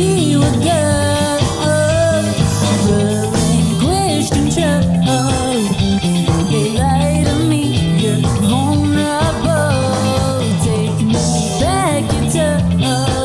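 Funk rock band playing live: a steady bass and drum groove under a lead melodic line that repeatedly bends up and down in pitch.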